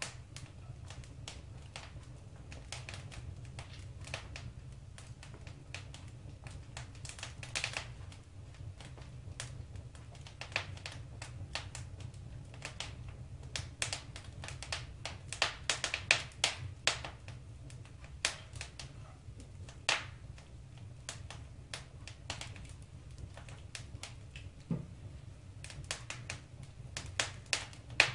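Wood fire crackling in a fireplace: irregular sharp pops and snaps, thicker in some stretches, over a low steady rumble.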